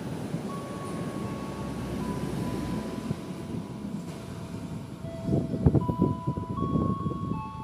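Long-distance passenger train's coaches rolling past on the rails and pulling away, the wheels rumbling with a clatter over the track joints that is loudest about two-thirds of the way in. Steady high squealing tones run above the rumble, shifting pitch in small steps.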